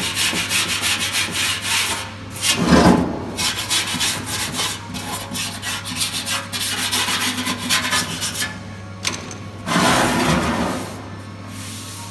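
Sanding on the sheet-metal fuel tank: rough, irregular rubbing strokes, louder twice, about three seconds in and near the end, over a steady low hum.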